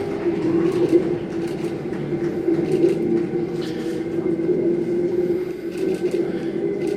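Tangara electric train running, with a steady hum over wide rumbling noise.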